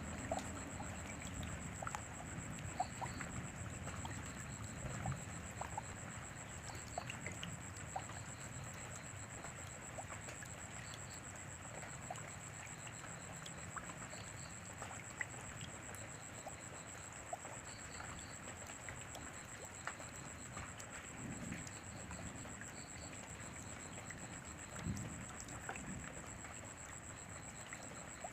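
Steady rainfall with scattered individual drops ticking, over a constant high-pitched whine. A couple of low rumbles come near the end.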